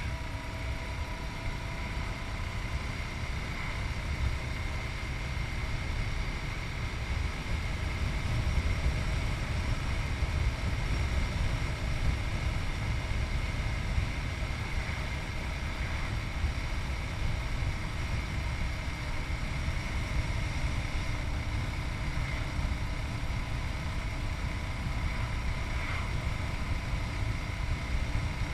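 Yamaha MT-03's 660cc single-cylinder engine running steadily under way, heard with heavy wind rumble on the microphone. It gets slightly louder about eight seconds in.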